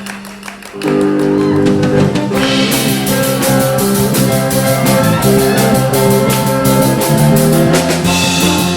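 Live rock band playing, with drum kit and electric guitar; a thinner passage swells into the full band about a second in.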